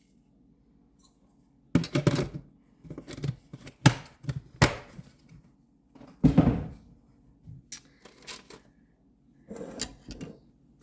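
Kitchen handling sounds while measuring out salt: a run of sharp knocks, clicks and short clatters from containers and a measuring spoon, starting about two seconds in.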